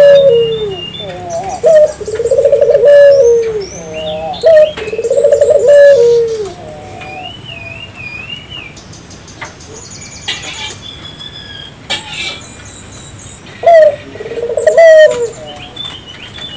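Barbary doves (burung puter) cooing: repeated low, arched coos in three groups over the first six seconds, a pause, then another coo phrase about 14 seconds in. Smaller birds chirp and whistle higher in the background, over a faint steady high whine.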